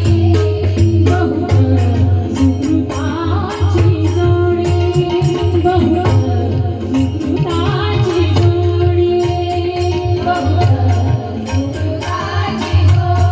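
Abhang devotional music: a pakhavaj drum beating a steady low rhythm under a continuous jingle of small hand cymbals, with held steady notes and a wavering melody line that swells three times.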